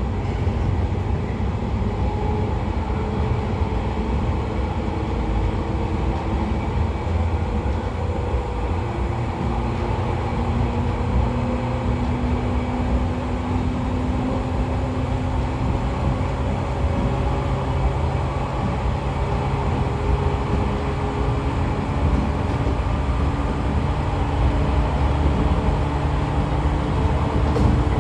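Running sound of a 113 series electric train heard from on board: the MT54 DC series-wound traction motors and their gears whine over a steady rumble of the DT21 bogies on the rail. The whine's pitch climbs slowly as the train gathers speed.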